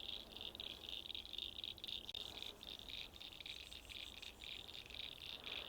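Frogs calling in a faint, steady chorus, a high-pitched pulsing trill.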